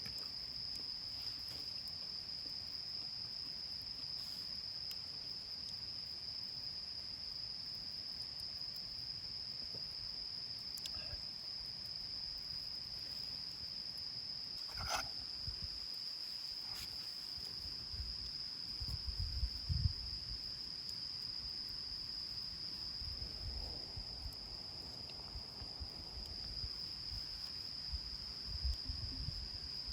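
Crickets trilling in one steady, unbroken high-pitched chorus, with a few faint clicks and some low rumbles in the second half.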